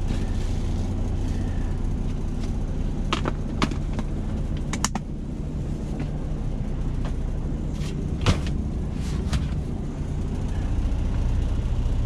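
Semi-truck's diesel engine idling with a steady low rumble, heard from inside the cab, with a few sharp clicks and knocks of things being handled.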